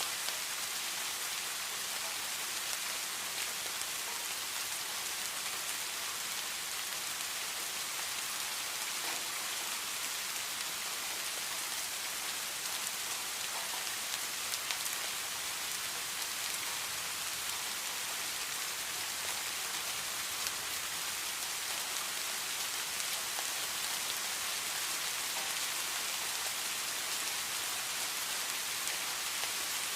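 Steady heavy rain falling, an even hiss with scattered individual drop ticks.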